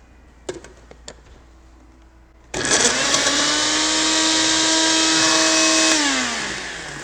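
A few light clicks, then a countertop blender switches on about two and a half seconds in and runs on high, blending kiwis with a steady whine. Near the end it is switched off and the motor winds down, its pitch falling.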